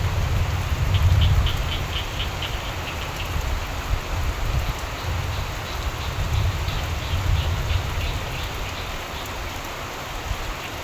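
Steady rain falling, with a frog croaking in a quick train of pulses, about four or five a second, for a couple of seconds near the start, over a low rolling rumble of distant thunder.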